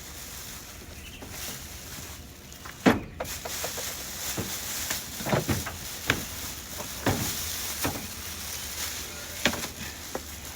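Unpacking: knocks, thumps and rustling as an electric pressure washer is lifted out of its cardboard box and its packaging is handled. A dozen or so irregular knocks, the loudest about three seconds in.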